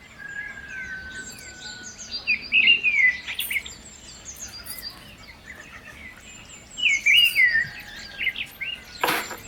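Birds chirping and singing, with two louder phrases of quick falling chirps, one a few seconds in and one about two-thirds of the way through. A short rustling noise comes just before the end.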